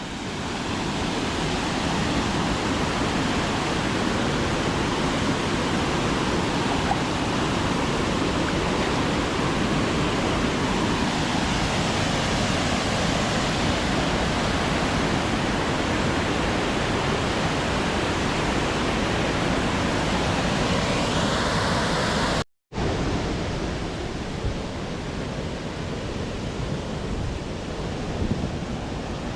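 Waterfall's steady rush of falling water. It cuts out completely for a moment about three-quarters of the way through, then comes back a little softer.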